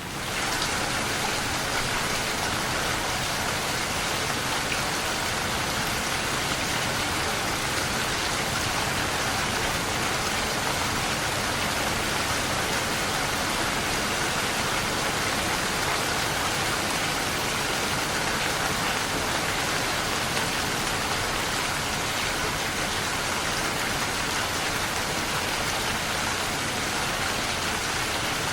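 Steady rain falling, an even hiss of many drops on a surface. It swells a little louder right at the start, then holds steady.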